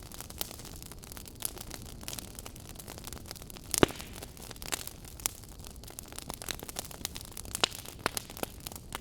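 Fire burning in a fireplace, crackling with irregular sharp pops over a low steady rumble. The loudest pop comes a little before four seconds in.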